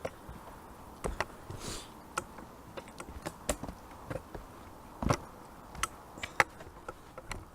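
Scattered sharp clicks and light knocks, irregular at about one or two a second, with a short scuffing rustle nearly two seconds in.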